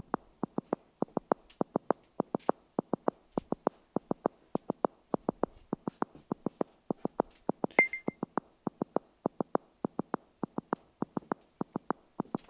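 Soundscape app's audio beacon: a steady drumming pulse, about four to five beats a second. It is the 3D-sound guide tone locked onto a marked destination, telling the listener which way to turn. A brief high beep sounds about eight seconds in.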